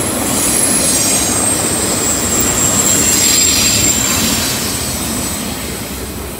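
Double-stack intermodal freight train rolling past on a curve, steel wheels rumbling with a thin, high, steady squeal from the wheels. The sound fades near the end as the last car goes by.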